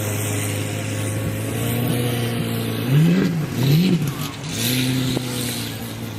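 Car engine idling, revved in two quick blips about three seconds in, then a longer rise in revs that holds for a moment.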